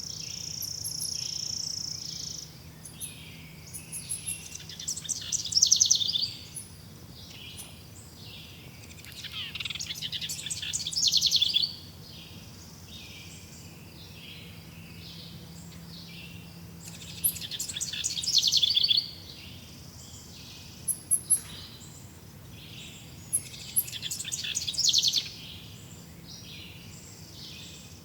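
Songbirds singing: four loud, rapid trilled song phrases, each lasting two to three seconds and coming every six seconds or so, over a steady high-pitched background chorus.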